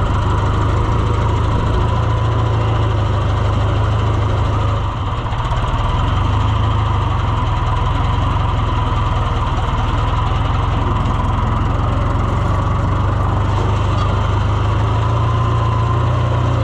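Farm tractor diesel engine running steadily, with a brief dip in level about five seconds in.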